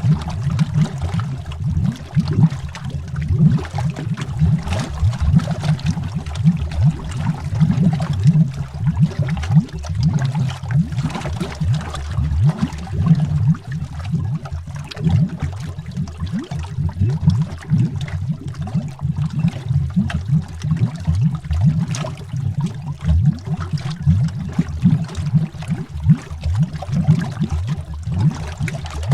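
Underwater bubbles rising and gurgling continuously, a dense stream of low, quick bubble blips with occasional brighter pops.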